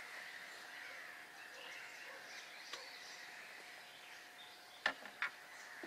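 Quiet outdoor ambience with faint bird calls chirping in the background. Two sharp clicks about a second apart near the end.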